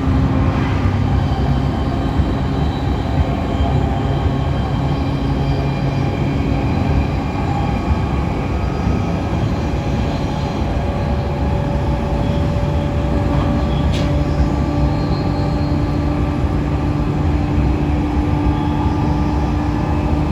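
JR East E531 series electric train running, heard from inside the car: wheel and rail noise with steady motor and Hitachi IGBT inverter tones that step up in pitch around the middle. A single sharp click about two-thirds of the way in.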